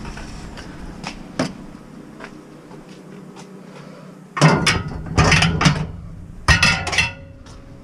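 Knocks and clattering bangs from a scrap item being picked up and handled, with a few light clicks first and then three loud bouts of clatter in the second half.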